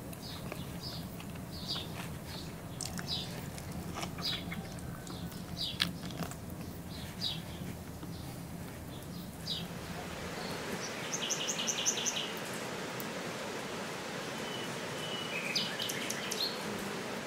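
Small birds chirping, short high calls scattered over a steady background. A little past halfway there is a quick trill of evenly spaced notes, and a few more chirps come near the end.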